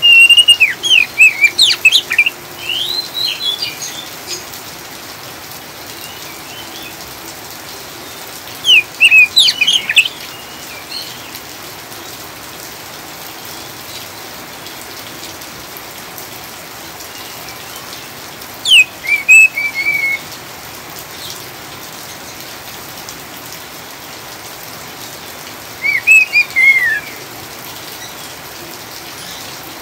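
Oriental magpie-robin (kacer) giving short bursts of rapid, sweeping chattering calls, four bursts in all, over a steady hiss of falling rain.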